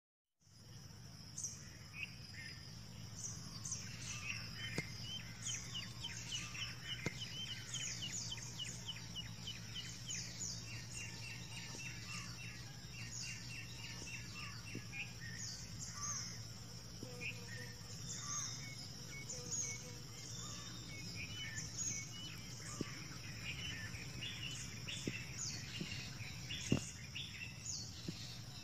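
Many birds chirping, often in quick runs of short calls, over a steady high-pitched hum and a low steady rumble. A few sharp clicks come near the end.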